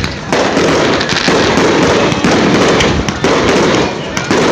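Fireworks crackling and popping in a dense, rapid barrage. The noise comes in loud stretches of about a second, each cut off by a brief dip.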